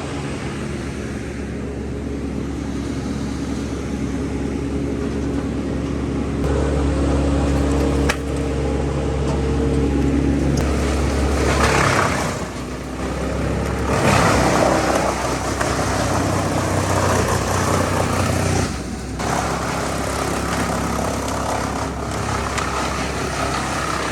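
Large grapple wood chipper's engine running under load while chipping a branch. It grows heavier about six seconds in, with surges of wood being shredded around the middle.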